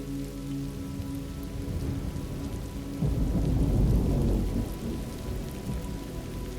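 Steady rain falling, with a roll of thunder that breaks in about halfway through, swells for a second or so, then dies back into the rain.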